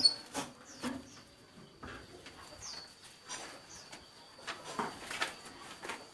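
Faint scattered rustles and clicks from caged birds, with one brief, faint high chirp about two and a half seconds in, over a thin steady high tone.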